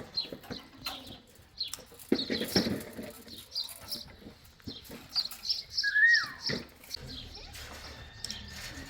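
Birds chirping in quick repeated short notes, with scattered knocks and clatter. About six seconds in comes one louder call that falls in pitch.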